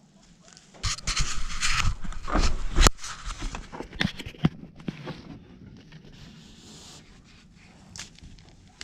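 Handling noise as the mini-split's lines and parts are worked by hand: scraping and rustling from about a second in, with a sharp knock near three seconds and a few lighter clicks after, then quieter fumbling.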